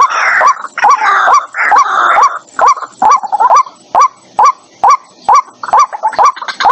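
White-breasted waterhen calling. For about the first two seconds it gives a harsh, raucous jumble of calls, then settles into a steady series of short rising 'kwak' notes, about two a second.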